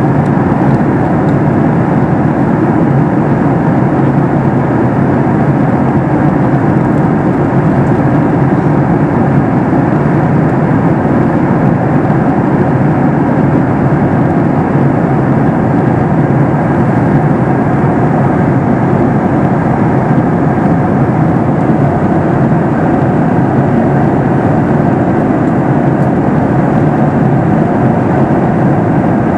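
Steady in-flight cabin noise of a Boeing 737 MAX 8 airliner: an even rush of airflow and its CFM LEAP-1B engines, unchanging throughout.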